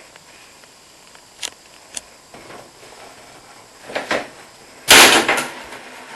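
Tensioned door spring of a Smeg dishwasher hinge being unhooked: a few small metal clicks and a scrape, then about five seconds in one loud, sharp clack with a short ring as the spring comes free under a lot of pressure.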